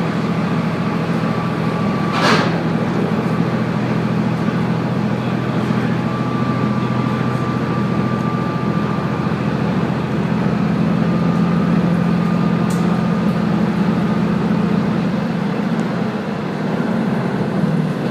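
Diesel railcar running along the line, heard from on board: a steady engine drone with wheel and rail noise, a sharp knock about two seconds in, and a faint high squeal at times.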